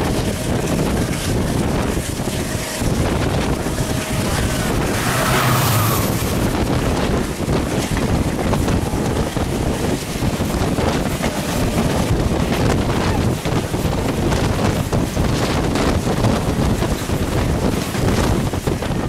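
Moving train running at speed: a continuous heavy rumble and clatter from the wheels and rails, with wind buffeting the microphone.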